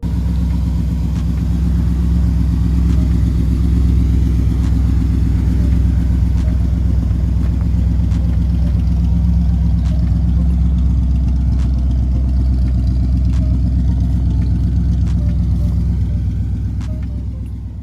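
1957 Cadillac Sedan DeVille's 365 cubic-inch V8 idling steadily with a deep, even rumble, fading away near the end.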